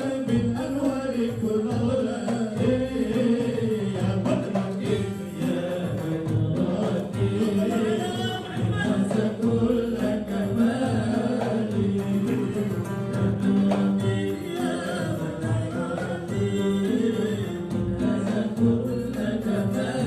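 A group of voices singing an Islamic devotional chant (sholawat) together over musical backing, steady and unbroken.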